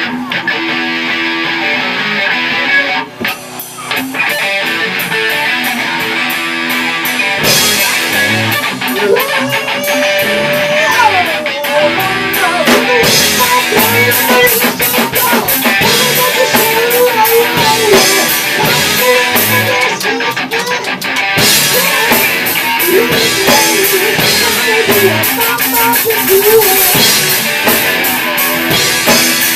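Live rock band playing: electric guitar alone at first, then drums and the full band come in about seven seconds in, with a wavering lead melody over them.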